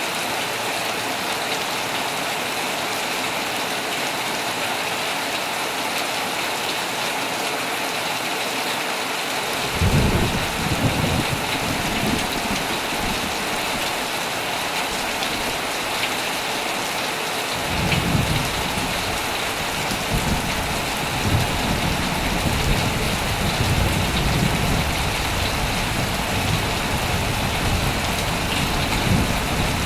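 Heavy rain falling steadily on a tent, with low thunder rumbling in about a third of the way through and rolling again from just past halfway to the end.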